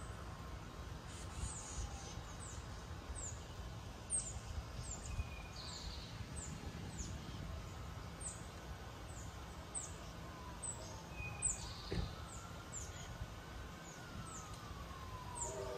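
A bird repeating short, high chirps that fall in pitch, about two a second, over a low steady background rumble. There is a single sharp click about twelve seconds in.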